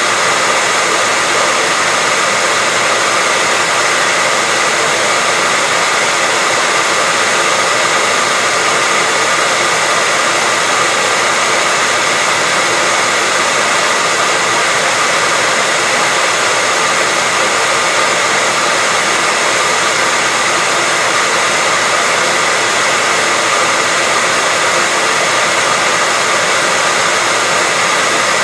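Hairdryer running steadily: an even, unbroken rush of air with a faint high whine from the motor.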